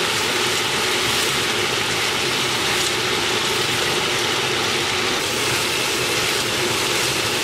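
Potato strips and onion sizzling steadily in hot oil in a non-stick pan while being stirred with a spatula.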